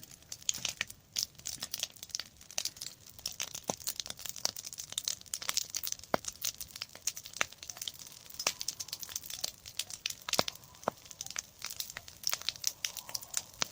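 Bonfire of dry corn stalks and leaves crackling, with irregular sharp pops and snaps.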